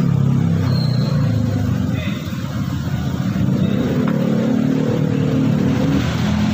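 A vehicle's engine running steadily while the front brake rotor and hub are turning, with a few faint metallic ticks from parts being handled at the hub.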